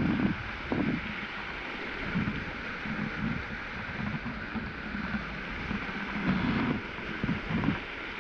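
Waterfall rushing steadily, with irregular low thumps and rumbles throughout.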